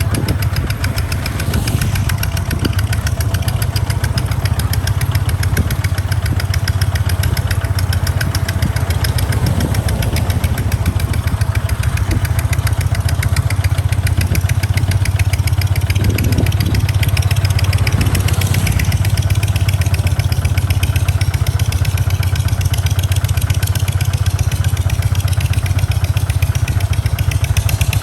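Kubota tractor's diesel engine running steadily, with a fast, even chugging.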